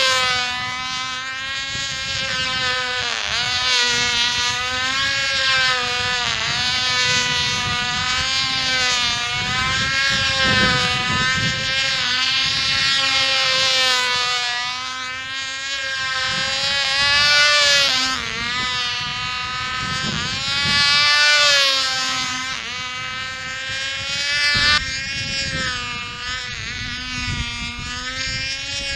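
Tiny .049 two-stroke model engine of a control line airplane running flat out as the plane circles on its lines, its high buzz rising and falling in pitch about every two and a half seconds with each lap. Wind rumble on the microphone underneath.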